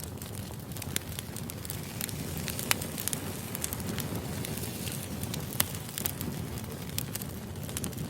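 Wood fire burning: a steady low rumble of flames with irregular crackles and sharp pops from the burning logs, two louder pops about a third and two-thirds of the way through.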